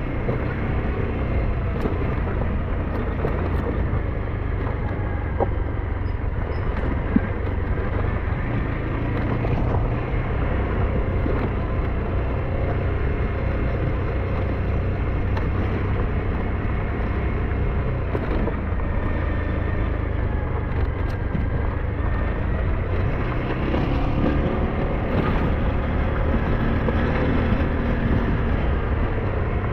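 SYM NH T 200 motorbike's engine running steadily under way, with a constant rush of road and wind noise.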